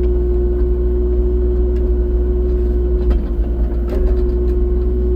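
Excavator's diesel engine running steadily with a constant hum, dipping briefly about three seconds in.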